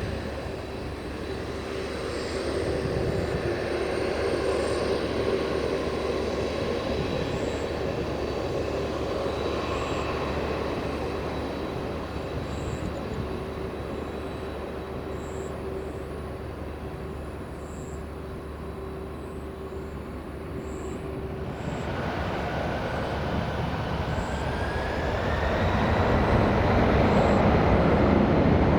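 Jet airliner engine noise with a steady whine. About three-quarters of the way through, the sound changes abruptly to another jet that grows louder, its whine rising in pitch.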